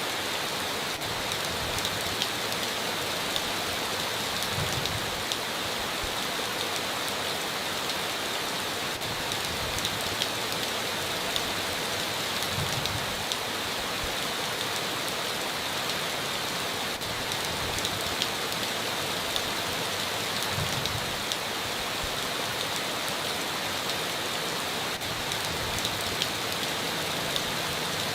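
Steady rain on a tin roof, an even hiss with scattered louder drops ticking through it.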